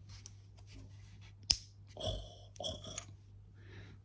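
Lego plastic pieces clicking as a window piece is slid into its frame. There are small clicks throughout, one sharp click about a second and a half in, then two short scraping sounds.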